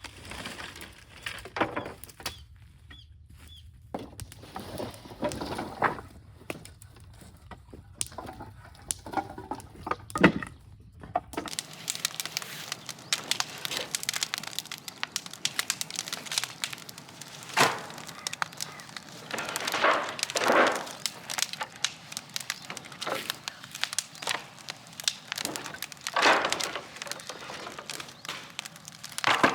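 Scrap wood burning in an incinerator: irregular crackling and cracking with a few louder snaps. The background changes abruptly about a third of the way in.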